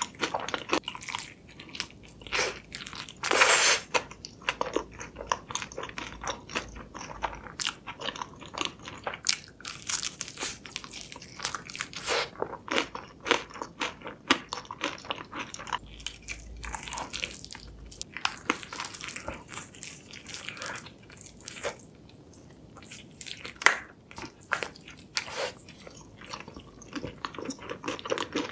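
Close-miked bites and chewing of a spicy red-sauce-glazed fried chicken drumstick: the crisp coating crunches with many sharp irregular cracks between wetter chewing, the loudest crunch about three and a half seconds in.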